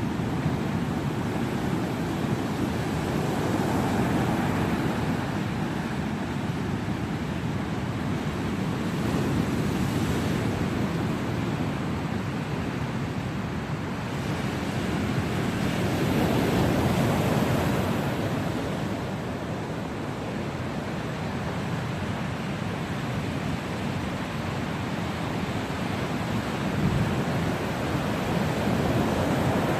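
Ocean surf: waves breaking on the shore in a continuous rush that swells and eases every several seconds.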